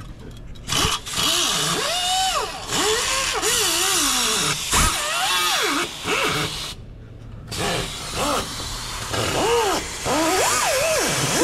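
Handheld power tool run in repeated bursts of one to two seconds, its motor pitch rising and falling as it is loaded against metal, with a short pause partway through; it is cleaning the exhaust flange at the turbo so the pipe will seat flush.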